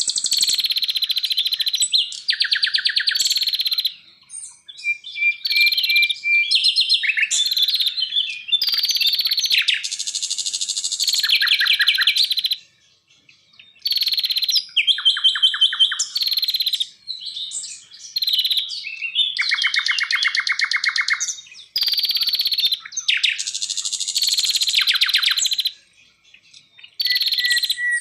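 Songbirds singing loudly in fast, high-pitched trills and chattering phrases, each burst a second or two long with short pauses between. Some phrases are rapid runs of repeated notes, and one is a thin steady whistle.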